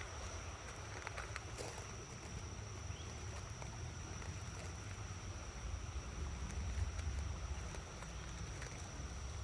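Wind buffeting the microphone as an uneven low rumble, with a steady high-pitched whine and a few faint ticks over it.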